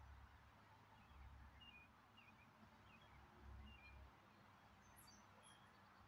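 Faint, scattered short bird chirps, with a few higher, thinner ones near the end, over a few soft low rumbles.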